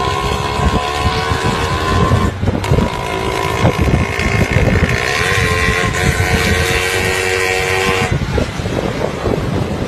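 A motor engine running, its note rising slowly, with low rumbling noise underneath; the engine note drops away about eight seconds in.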